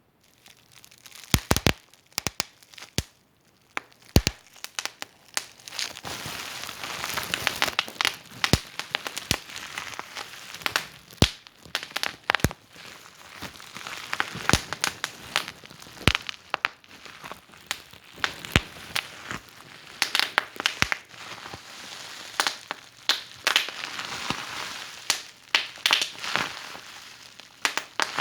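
Wood fire in a fireplace crackling, with irregular sharp pops and snaps over a soft hiss and a brief lull about three seconds in.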